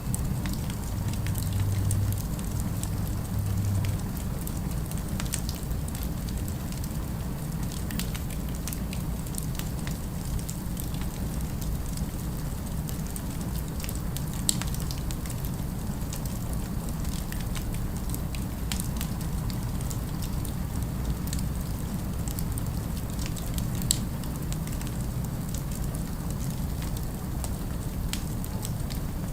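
Fire crackling with scattered small pops, two sharper ones about halfway through and near the end, over a steady low rumble of city ambience.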